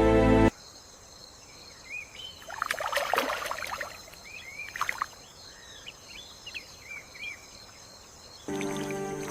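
Wetland ambience: a steady high insect drone, short rising-and-falling chirps from small birds, and water splashing a couple of times around the middle. Music plays briefly at the start and comes back near the end.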